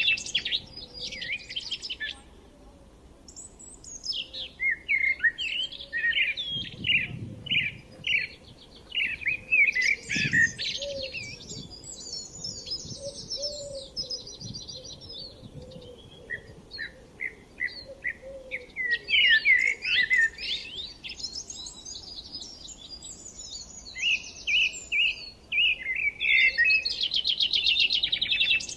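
Several songbirds singing together, a busy mix of rapid chirps and buzzy trills, with a short lull about two seconds in.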